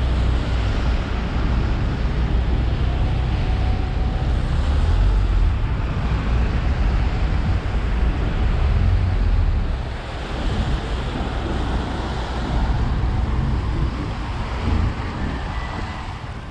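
A moving train: a steady low rumble with rushing, wind-like noise, easing off toward the end.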